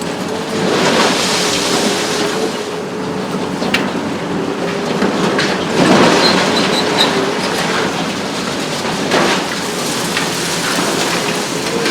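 Hitachi ZX870 long-front demolition excavator at work: a steady hydraulic whine that wavers in pitch, with crashing swells of noise about a second in, around six seconds and around nine seconds, and scattered sharp knocks.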